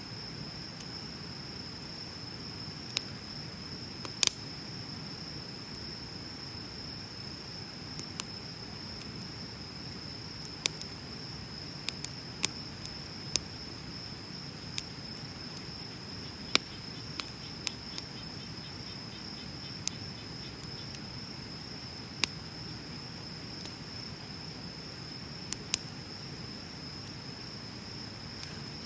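Wood bonfire burning, with a dozen or more sharp crackles and pops at irregular moments over a low steady rush. A steady high-pitched insect trill runs underneath.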